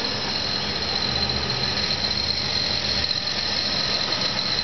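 2001 Nissan Pathfinder's 3.5-litre V6 idling steadily, with a constant high-pitched whine over the engine hum.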